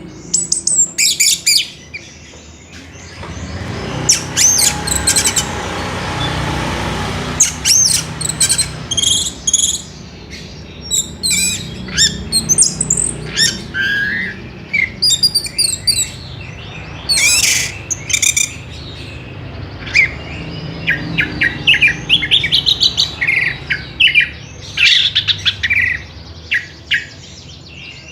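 Orange-headed thrush singing a long, varied song of quick whistles and chirps in rapid phrases. A steady rush of noise runs underneath for a few seconds about four seconds in.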